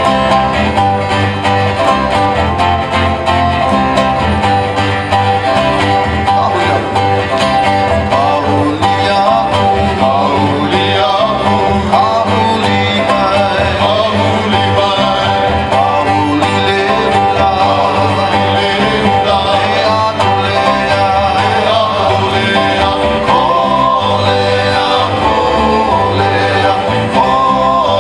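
Live Hawaiian song from a small band: plucked and strummed string instruments over a steady bass beat, with a man singing.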